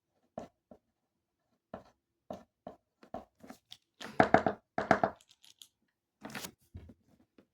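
Handling noise: a series of short tearing and crinkling strokes, densest in a quick run about four seconds in and again a little after six seconds.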